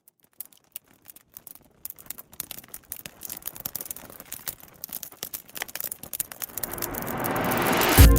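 Crackling of a wood fire in a fireplace: irregular sharp pops, sparse at first and growing denser. In the last second and a half a hiss swells up, and the song's first deep beat lands right at the end.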